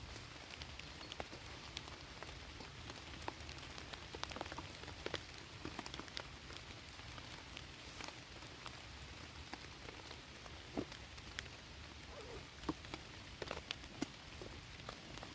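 Steady rain falling, with many scattered individual drops landing close by.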